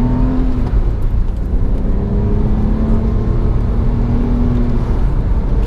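Porsche 911 (997) Carrera's naturally aspirated flat-six pulling hard out of a corner under throttle, heard inside the cabin: a loud, steady, low engine sound.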